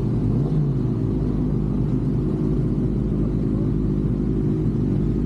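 Vehicle engine running steadily at low revs, a deep even note with slight rises and dips in pitch.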